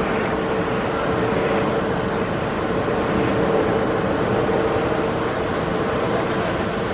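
Several police motorcycle engines running steadily together, a continuous engine drone with a held tone and a low rumble.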